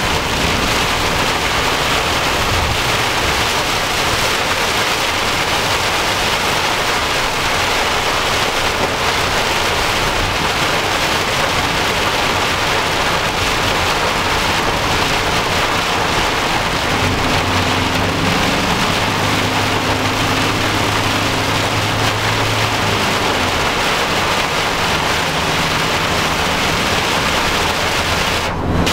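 Torrential rain hammering on a moving car's roof and windscreen, heard from inside the cabin, steady and loud throughout. A low steady hum from the car comes up for several seconds past the middle.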